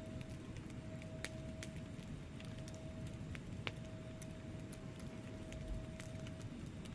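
Wood fire crackling in a fireplace: scattered sharp pops and snaps from the burning logs over a low, steady rumble of the flames, with one louder pop about halfway through.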